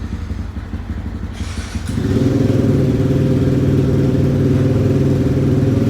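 Small single-cylinder motorcycle engine idling low. About two seconds in it gets louder and settles into a steadier, higher idle. The engine is still cold, and its owner finds the idle too low.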